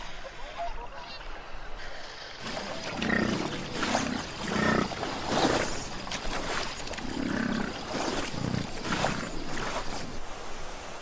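Wild animals calling in a run of short, harsh barks and growls, about a dozen over eight seconds, starting a couple of seconds in after a quiet start.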